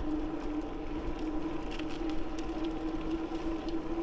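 Riding noise from a bicycle rolling along a paved path: a steady low hum over an even rushing haze, with a few faint scattered clicks.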